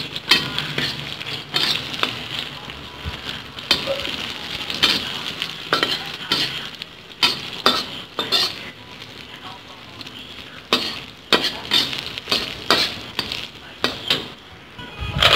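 Shacha sauce, ginger and spring onion sizzling in hot oil in a wok, with a metal spatula stirring and scraping and clicking against the pan many times.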